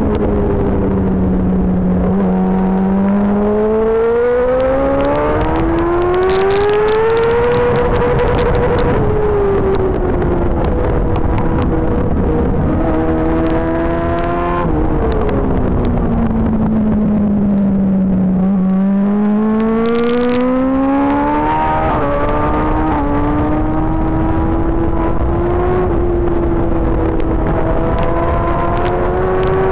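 Superbike race engine heard on board at speed, its revs falling as the bike slows into a corner and then climbing for several seconds as it drives out, twice, with short steps in pitch between.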